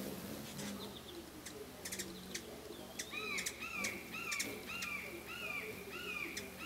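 Birds calling: sharp, high chip notes in the first half, then a repeated arched call about twice a second from about halfway in.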